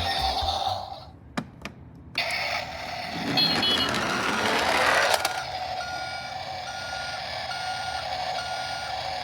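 A truck's reversing beeper: a string of short, evenly spaced beeps, a little more than one a second, starting about halfway through. Before the beeps, a swelling rush of noise peaks and stops.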